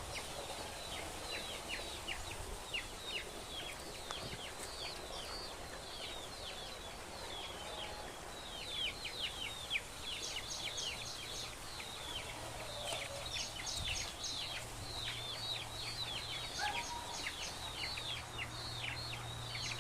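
Chicks peeping: a constant stream of short, high, downward-sliding cheeps, several a second, with a low steady hum joining about midway.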